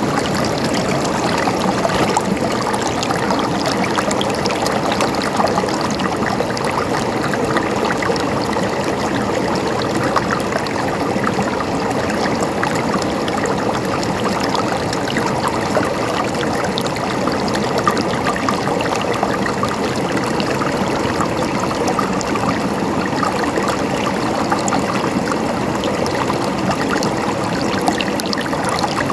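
Flowing water gurgling steadily, an unbroken rush peppered with many small splashes.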